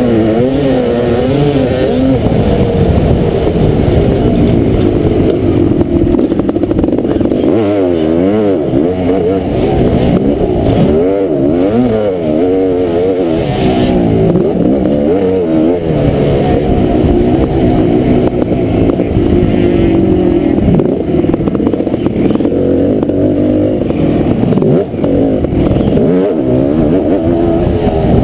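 Kawasaki KX500 two-stroke single-cylinder motocross engine under hard riding, revving up and dropping back over and over as the throttle is opened and closed, its pitch rising and falling every second or two.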